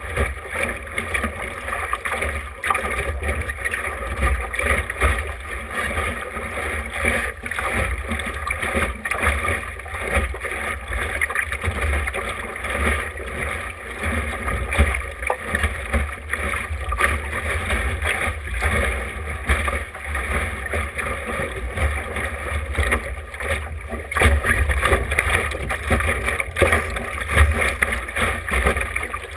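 Wind buffeting the microphone in a steady low rumble, with water splashing and slapping against a small sailboat's hull in irregular knocks.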